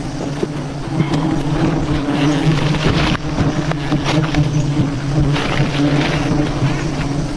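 A swarm of honeybees buzzing steadily in a low, wavering drone, with a few knocks and rustles partway through.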